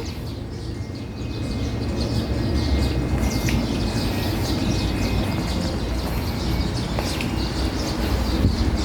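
Many small birds chirping and twittering over a steady low rumble, with a single sharp click about seven seconds in.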